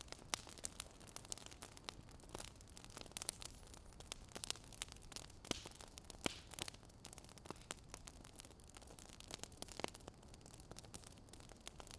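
Fire crackling: faint, irregular pops and snaps over a soft steady hiss.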